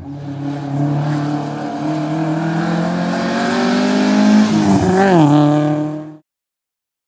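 Rally car engine under acceleration, revs climbing steadily for about four seconds. Near the five-second mark the revs dip briefly, jump back up sharply and hold, before the sound cuts off abruptly.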